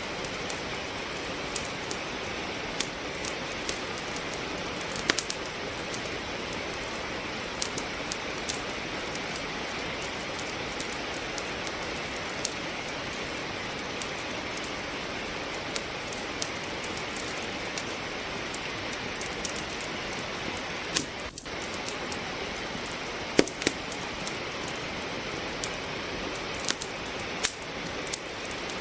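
Steady hiss of falling rain with a wood fire crackling over it in irregular sharp pops, a few of them louder snaps.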